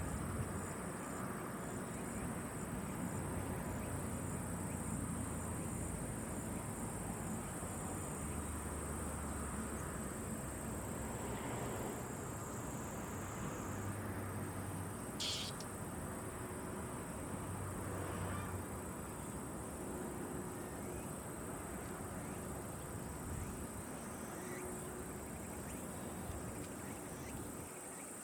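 Insects, crickets or similar, chirring in a steady high drone over a low, steady background rumble, with one short high chirp about halfway through.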